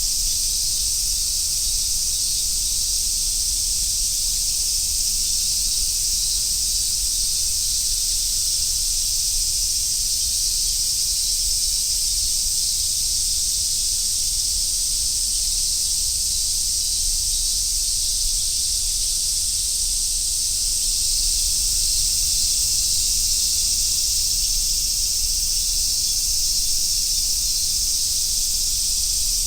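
Chorus of Japanese summer cicadas, a steady, dense, high buzz that neither breaks nor pulses, over a faint low rumble.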